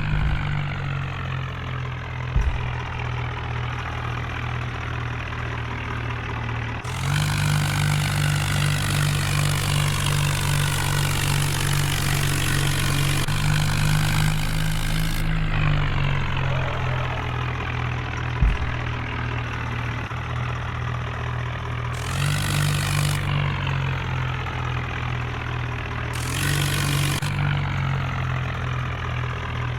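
Tractor engine running steadily, picking up speed and growing louder for a spell of several seconds about a quarter of the way in and twice more briefly later, with a single sharp knock in the middle.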